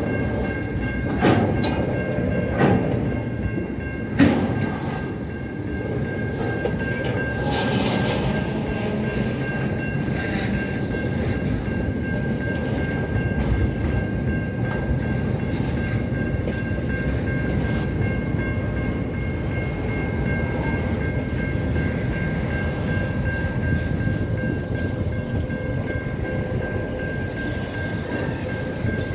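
A train running on the track: a steady rumble with two thin, high steady tones held over it, and a few sharp clacks in the first few seconds.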